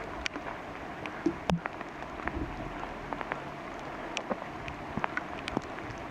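Steady rain falling in a forest, with scattered drops ticking irregularly close by and a few heavier thumps about a second and a half in.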